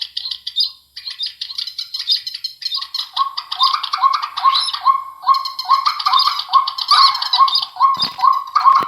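Recorded bird calls played back loud through an amplifier and loudspeaker. Rapid, repeated high chirps are joined about three seconds in by a lower, evenly repeated note.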